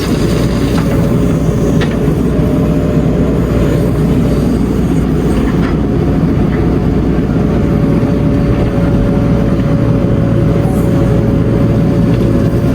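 Heavy diesel engine running steadily with a loud low rumble and a thin, steady whine above it.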